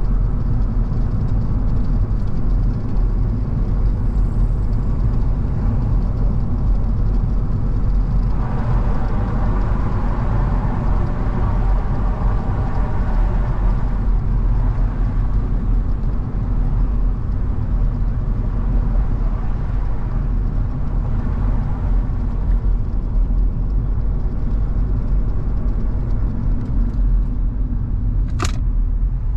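Car on the move: a steady low rumble of engine and tyre noise on the road. A rougher, louder stretch of road noise lasts several seconds about a third of the way in, and a single sharp click comes near the end.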